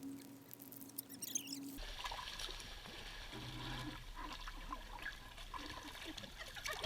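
Faint trickling and lapping of swimming-pool water, starting after an abrupt cut about two seconds in; before the cut there is only a faint steady hum.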